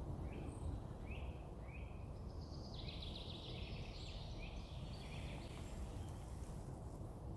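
Woodland birds singing: three short call notes in the first two seconds, then a rapid trilling song phrase, over a steady low background noise.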